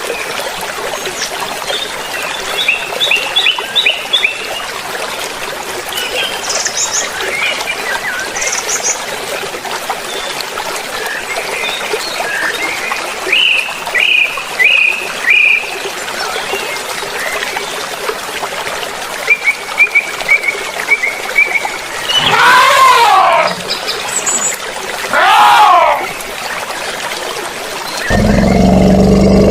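Running stream water with small birds chirping over it. About two-thirds in come two loud calls that waver in pitch, and near the end a loud low sound begins.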